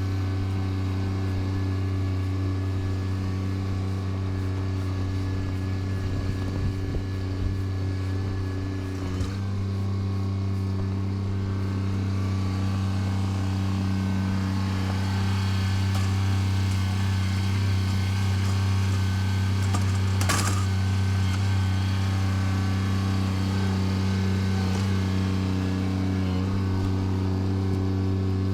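Bobcat tractor's engine running at a steady speed while clearing snow, with a brief sharp knock or scrape about two-thirds of the way through.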